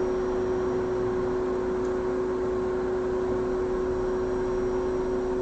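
Hot air rework station's blower running steadily, a whirring rush with one steady hum in it.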